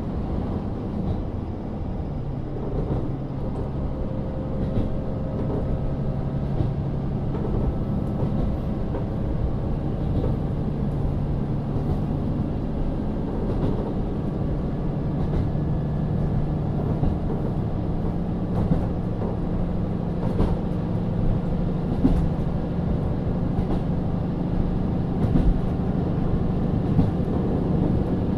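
JR KiHa 40 diesel railcar running along the line, heard inside the car: its N-DMF13HZB diesel engine pulls with a steady drone that grows a little stronger and higher about halfway through, with a few wheel clicks over rail joints in the second half.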